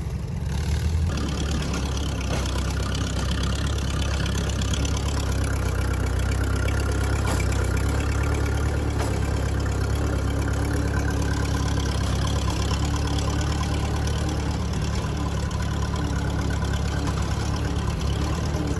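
Farm tractor engine running steadily, getting a little louder about a second in.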